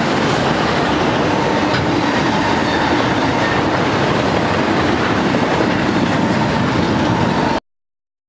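Auto-rack freight cars rolling along the rails, a steady, loud wheel-and-rail noise. It cuts off abruptly near the end.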